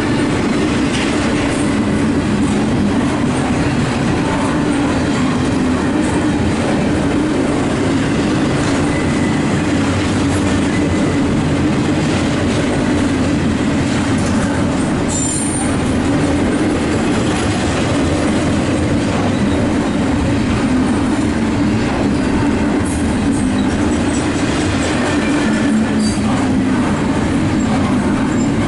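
A long train rolling past at close range, most likely the CSX double-stack intermodal freight: a steady rumble of wheels on rail with clickety-clack and some wheel squeal, holding at the same level throughout.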